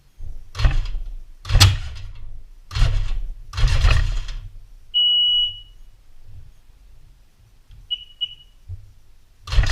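Four short hissing bursts, then the jet ski's electronic beeper gives one long beep and, about three seconds later, two short beeps of the same high pitch. The two short beeps are the Sea-Doo DESS signal that the lanyard key is recognised.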